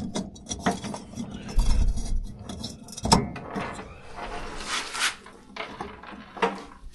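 Small metal parts being handled by hand: a string of clicks, scrapes and rubbing, with a few sharper knocks.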